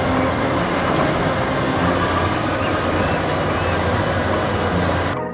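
Toy excavator running: a steady, noisy mechanical whir with a low hum, cutting off shortly before the end.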